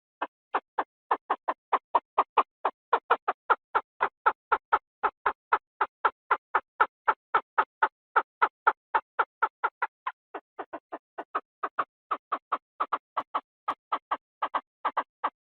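Chinese francolin calling: a long, even series of short clipped notes, about three to four a second. It dips softer for a moment around ten seconds in, then builds back up.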